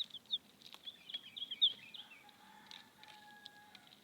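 Baby chicks peeping: many short, high, falling chirps, scattered and overlapping throughout.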